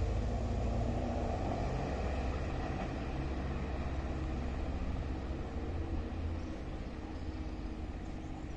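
Regional electric train running away from the platform, a low rumble slowly fading as it recedes.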